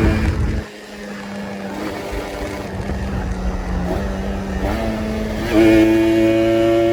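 Kawasaki Ninja RR's single-cylinder two-stroke engine running at a steady pitch. About half a second in it drops off sharply to a quieter, lower steady sound, then jumps back up to a loud steady pitch after about five and a half seconds.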